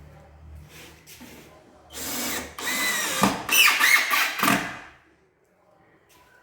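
Power drill-driver running to drive 4×40 Phillips screws into an MDF cabinet panel, in two short runs from about two seconds in until about five seconds in.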